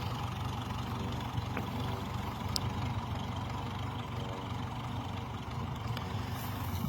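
Grey Ferguson tractor engine running steadily.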